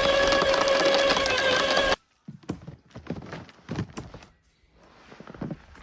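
An electric power tool's motor running loud and steady with a whine, cutting off abruptly about two seconds in, followed by irregular knocks and rustles.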